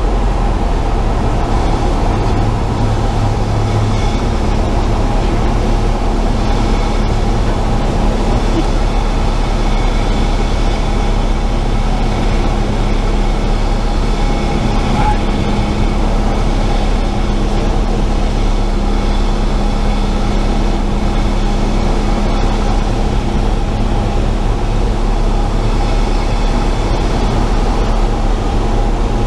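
Steady cabin noise of a Cessna 172 in flight: the piston engine's drone and the rush of air, running unchanged throughout.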